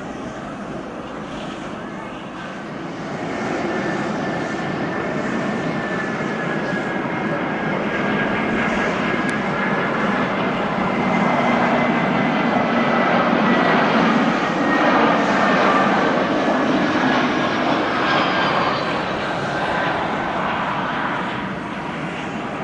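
Peach Aviation Airbus A320-family jet airliner landing, its jet engines' noise swelling as it passes, peaking past the middle and then easing off. A steady whistling whine rides over the engine noise, and a high whine falls in pitch near the end.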